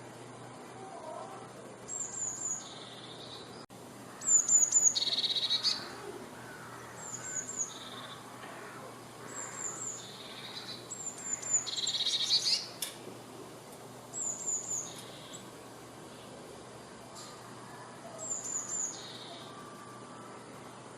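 A tit singing: a repeated short phrase of three quick, high, falling notes followed by a lower, rougher note, given about every two seconds, loudest about four and twelve seconds in.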